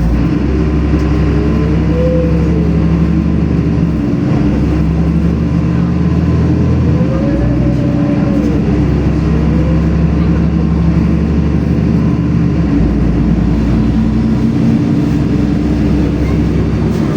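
Inside a LiAZ-5292 low-floor city bus under way: the engine and drivetrain hum steadily with a low rumble. A whine rises and falls in pitch twice, about two seconds in and again around seven to nine seconds in.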